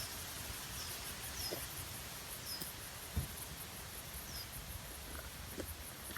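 Night insects chirping in a fast, even high-pitched pulse, with a few short falling chirps over it. A campfire crackles now and then, with one louder pop about three seconds in.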